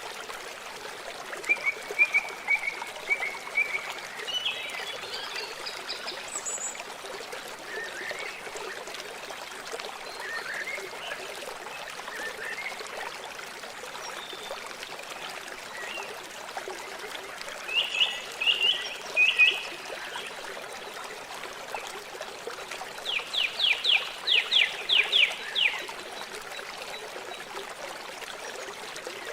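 River water flowing steadily, with birds calling over it: short chirp series at intervals and, near the end, a quick run of about ten sharp falling notes.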